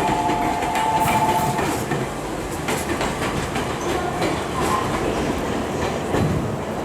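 A JR Central 315 series electric train moving along the platform, its wheels clicking over the rail joints under a steady running rumble. A steady two-note whine sounds for about the first second and a half.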